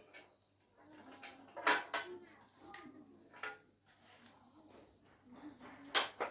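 Metal tools and engine parts clinking and knocking against each other as a small engine is worked on by hand. The clatter is irregular and light, with sharper knocks about two seconds in and near the end.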